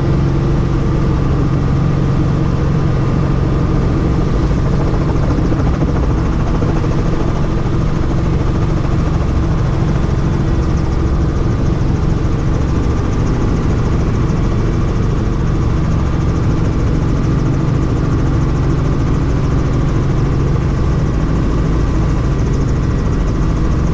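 Helicopter running steadily: a constant loud drone of rotor and engine with a low hum over a rushing noise, unchanging throughout.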